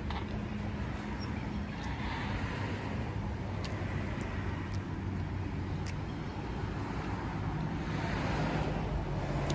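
Faint clicks of a burger being chewed with the mouth closed, over a steady low background rumble.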